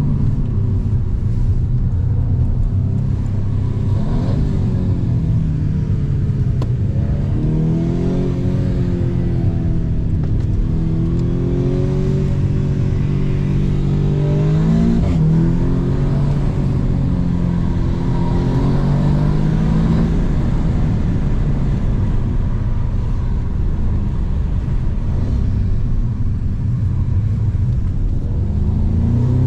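Audi S3 8V's turbocharged 2.0-litre four-cylinder engine and exhaust under hard driving, its note rising and falling repeatedly as the car accelerates and eases off, then holding steadier in the last third.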